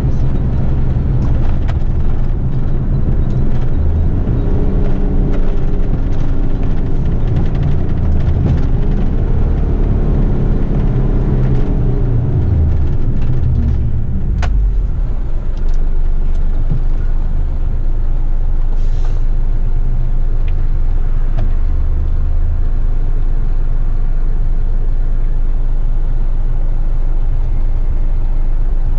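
Diesel engine of an eight-wheeler twin-steer heavy rigid truck pulling under way. Its note climbs over the first several seconds and drops away about halfway through, with a single sharp click just after. It then runs on at a steadier, lower note.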